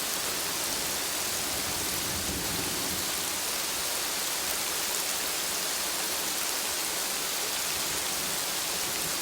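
Steady rain falling, an even hiss of many drops, with a brief low rumble about two seconds in.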